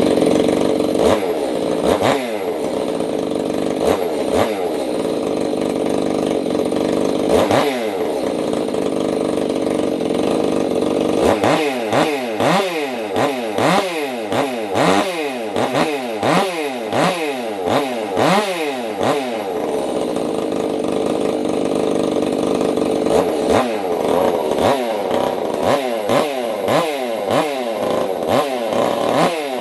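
Ported Stihl MS 362 C-M two-stroke chainsaw engine running at high revs on a heat cycle, the break-in run after porting. The throttle is let off and reopened over and over, so the revs drop and climb back: only a few times at first, then about once a second through most of the second half.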